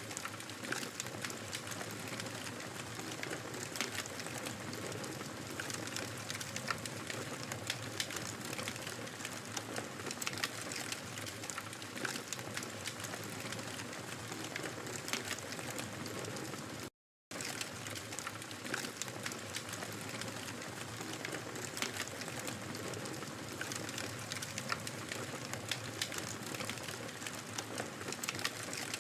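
Wood fire crackling in a fireplace: a steady hiss of burning with frequent sharp, irregular pops and snaps. The sound cuts out completely for a split second a little past the middle.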